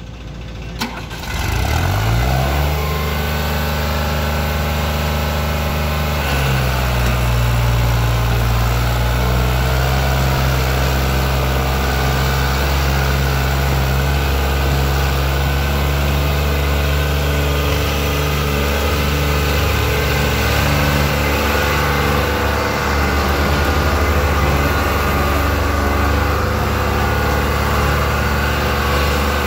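New Holland 3630 tractor's three-cylinder diesel engine revving up about two seconds in, then running hard and steady under heavy load from an overloaded dumper trailer. Its note drops a little around six seconds in and then holds steady.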